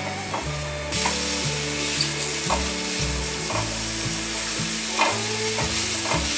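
Beech (shimeji) mushrooms sizzling as they are stir-fried in a dry non-stick pan with no oil, a spatula pushing and scraping them around. The sizzle gets louder about a second in.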